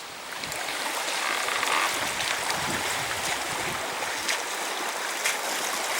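Small mountain stream running, a steady rush of water that swells up over the first second.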